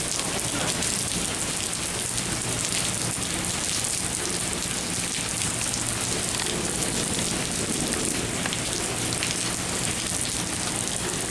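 Rain falling steadily, with a faint steady low hum underneath.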